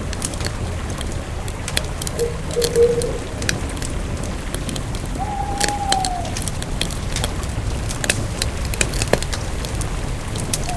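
Campfire burning with irregular crackles and pops over a steady low rumble. Two short pitched calls sound in the background: a wavering one about two seconds in and a longer, slightly falling one a few seconds later.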